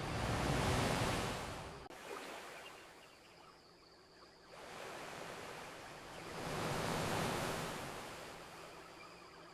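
Ocean waves washing onto a beach: two swells of surf, about six seconds apart, each rising and then fading away.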